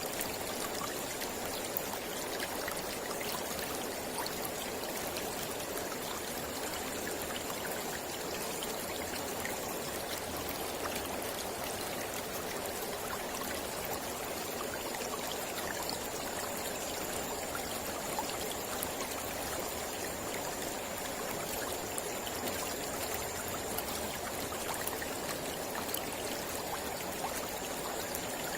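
Mountain river flowing steadily, an even rushing of water.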